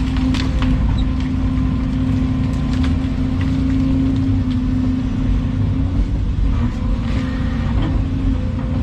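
Volvo EC220 excavator's diesel engine running steadily under work, heard from inside the cab as a loud, even hum and rumble, with scattered clicks and knocks over it.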